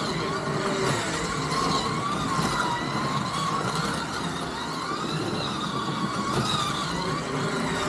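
Scalextric slot cars lapping the track: their small electric motors whine, rising and falling in pitch every couple of seconds, over a steady rumble of the cars on the track.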